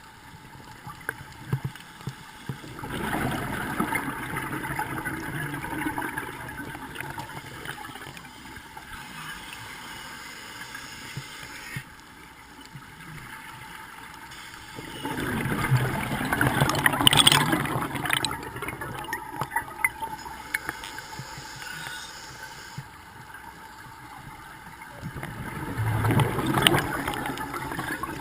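Scuba diver's exhaled bubbles gurgling out of the regulator, three bursts about ten seconds apart, one per breath.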